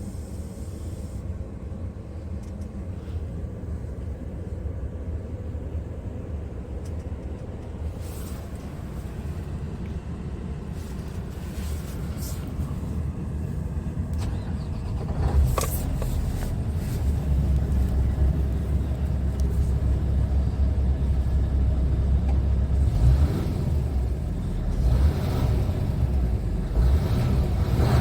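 Scania R tractor unit's diesel engine running with a steady low rumble that grows louder about halfway through. A single sharp click comes about halfway through.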